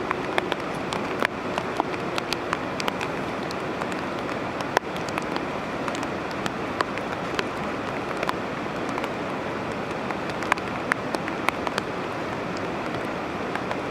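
Steady rain, with individual drops tapping close by at irregular intervals.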